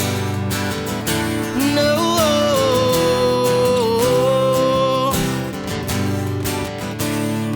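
Country-rock song's closing instrumental, with strummed guitar and one long held note that bends slightly, from about two to five seconds in.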